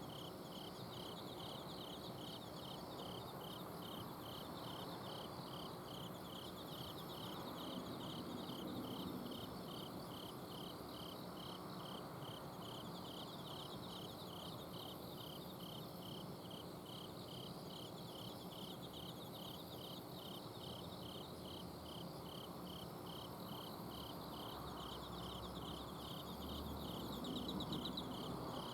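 Autumn insects singing in a garden: one chirps in a steady, even rhythm at a single pitch, with fainter high trills from others above it. Under them runs the low, steady hum of an air-conditioner's outdoor unit.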